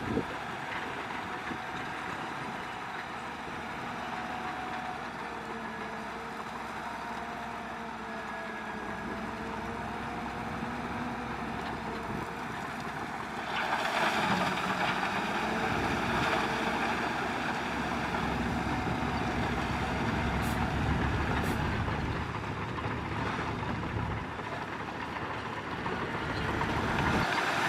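Diesel engines of heavy earthmoving machinery running steadily, their pitch wavering slightly. About halfway in a louder, rougher noise joins and stays, swelling again near the end.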